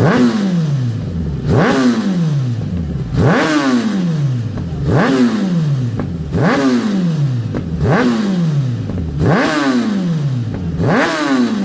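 Superbike engine and exhaust being revved hard again and again while standing: each time a quick blip up to high revs, then the revs fall away, about every second and a half.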